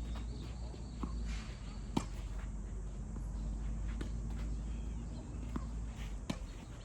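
Tennis rally: a handful of sharp pops from the ball being struck by rackets and bouncing on the court, spaced one to two seconds apart, the loudest about two seconds in.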